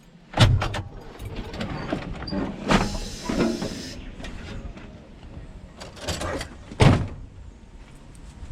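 A truck driver climbing out of the cab: the cab door opening and shutting, with several clunks, the loudest about half a second in and near seven seconds in, and a short hiss around three seconds in.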